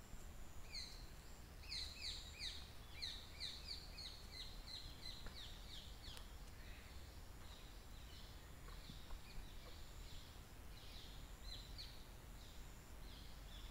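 Faint outdoor birdsong: a bird gives a quick run of short, falling chirps, about three a second, for a few seconds, then more scattered chirps, over a low steady background rumble.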